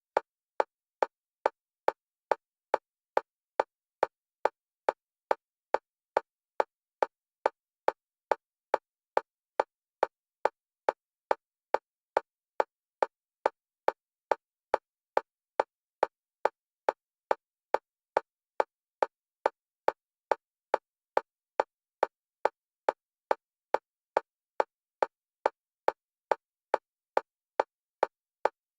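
Fast metronome clicks for EMDR bilateral stimulation, alternating between left and right stereo channels. A steady, even beat of about two and a half clicks a second, every click at the same pitch and level.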